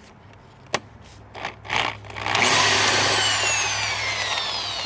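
A few light clicks of metal parts, then a power tool's motor starts suddenly with a loud whir. Its whine jumps up in pitch and then falls slowly as the motor winds down.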